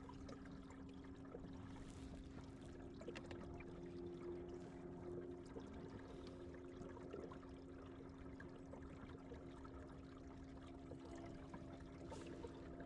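Faint water trickling and lapping, with a steady low hum underneath.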